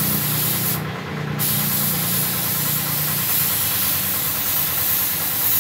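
Pneumatic paint spray gun hissing as it sprays a car body, the trigger let off briefly about a second in, with a steady low hum underneath.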